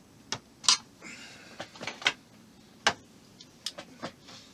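Sharp clicks and taps of small model-kit parts and a tool being handled on a work surface, about six in all, with a short scrape about a second in.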